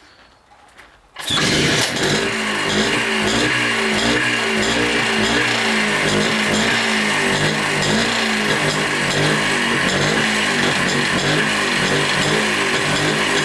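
Montesa Cota 247's two-stroke single-cylinder engine starts suddenly about a second in, then keeps running steadily with slightly wavering revs. It is the bike's first running after 42 years laid up, its idle not yet adjusted.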